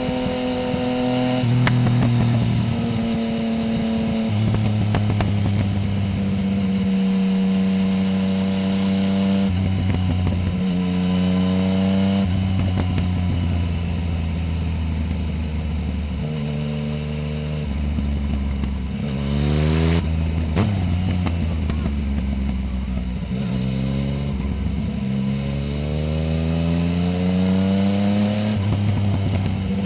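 Yamaha Tracer 900 GT's three-cylinder engine through a full Roads Italia exhaust with its dB killer removed, heard close from under the seat. It holds steady revs with several gear changes, climbs hard in revs about twenty seconds in, and picks up revs again near the end.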